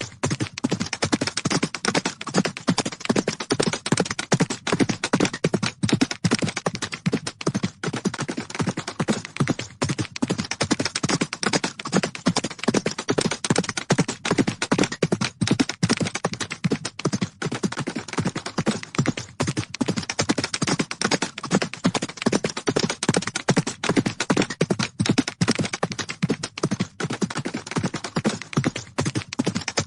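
Horses galloping: a dense, unbroken run of rapid hoofbeats, many strikes a second.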